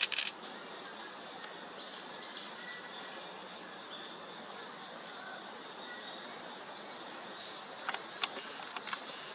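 Steady, high-pitched chorus of autumn crickets, unbroken throughout, with a few short sharp clicks near the end.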